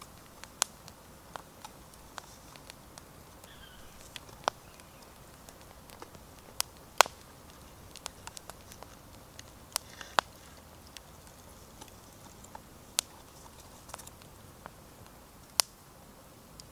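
Oak firewood burning in a campfire, crackling with sparse, irregular sharp pops, a handful of them much louder than the rest.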